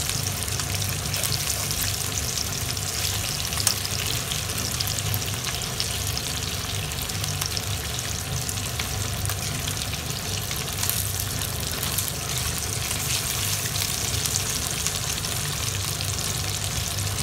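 Chicken drumsticks and chopped garlic sizzling steadily in hot oil in a pan while the pieces are browned on their second side, with a few clicks of metal tongs turning them, the sharpest a little under four seconds in.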